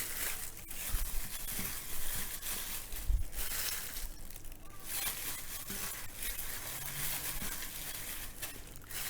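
Hands mixing raw chicken thigh pieces into a thick chilli-paste marinade: irregular wet squishing and rustling, with a few small knocks.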